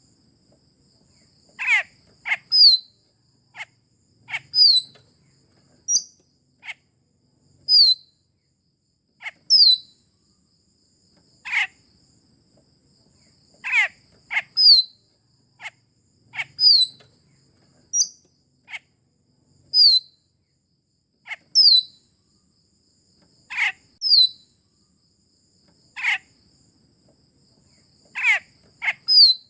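Sulawesi myna calls played as a bird-lure recording: sharp, downward-sliding notes repeated about every two seconds. A steady high-pitched whine runs underneath.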